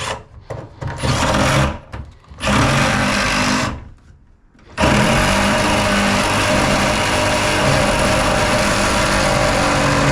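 An electric power tool's motor running, stopping and restarting several times in the first five seconds, then running steadily.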